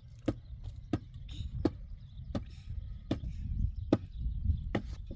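Seven sharp blows of a tool striking something, evenly paced about every three-quarters of a second, over a low rumble.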